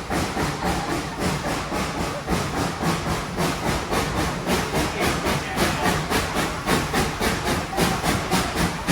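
Steam locomotive #190 working steadily, its exhaust making a rapid, even chuff with hissing steam.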